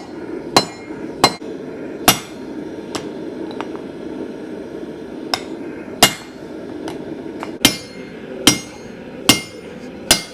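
Hand hammer striking steel on an anvil while forging: about a dozen sharp blows at an uneven pace, over a steady low rushing background.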